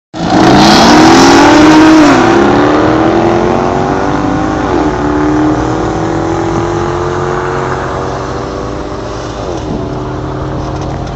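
Sports car engine accelerating hard through the gears, its pitch climbing in each gear and dropping at upshifts about two, five and ten seconds in. Loudest at the launch, then slowly getting quieter.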